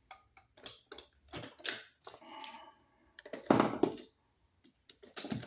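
Scattered clicks, knocks and rattles of small metal hardware and hand tools being handled, with a louder knock about three and a half seconds in.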